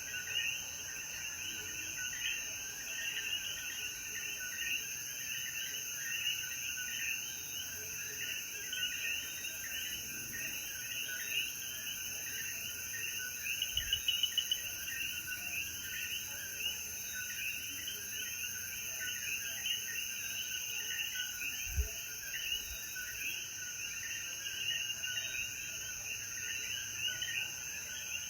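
Night chorus of many common coquí frogs giving overlapping short chirping calls, over a steady high-pitched insect drone. A brief low thump about three-quarters of the way through.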